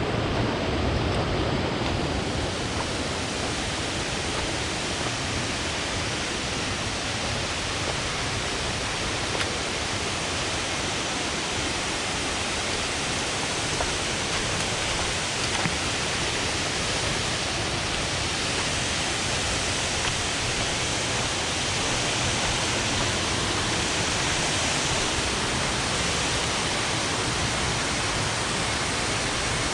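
Waterfall: a steady, unbroken rush of falling water, even across low and high pitches.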